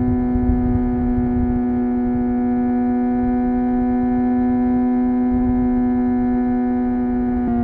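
Suzuki GSX-R750 inline-four engine and exhaust running at steady high revs while riding, one even held tone with a low rumble underneath. The pitch drops slightly near the end.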